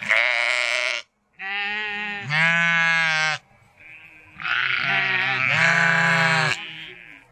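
Sheep bleating: a short bleat at the start, then two long wavering bleats, one from about a second and a half in and one from about four and a half seconds in.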